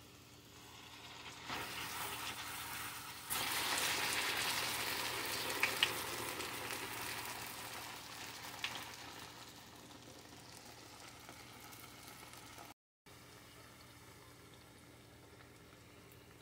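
Plantain frying in hot oil in a shallow pan. The sizzle swells as the plantain, turned on a skewer, is laid back into the oil, jumps loud about three seconds in, then dies down over the next several seconds, with a couple of sharp clicks near the peak.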